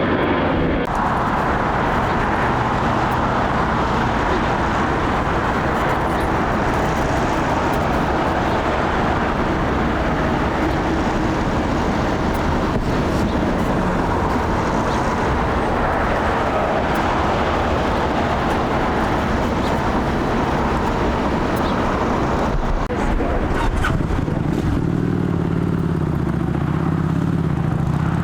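Boeing 787 Dreamliner jet engines giving off a loud, steady roar. A low, steady hum comes in about 24 seconds in.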